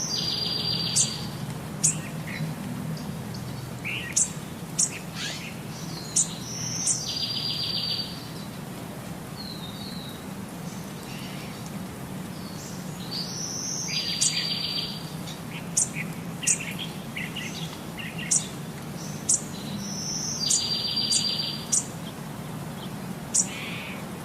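Birds chirping and singing: a short song ending in a buzzy trill repeats about every seven seconds, with sharp high chirps in between.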